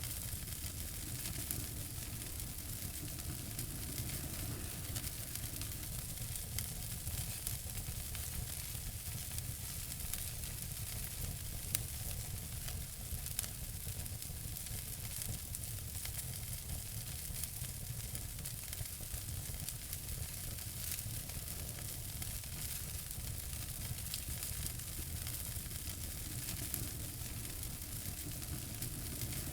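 Wood fire crackling in a fireplace: a steady hiss full of small crackles, with a couple of louder pops near the middle.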